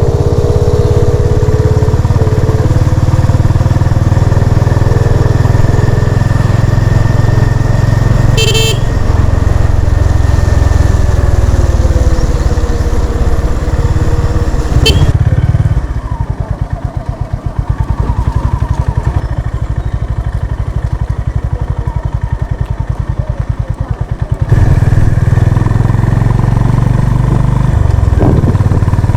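Honda CB350 RS single-cylinder motorcycle engine running under way. About halfway through it falls to a quieter, slow, even beat for around eight seconds, then picks back up. A brief horn beep sounds about eight seconds in.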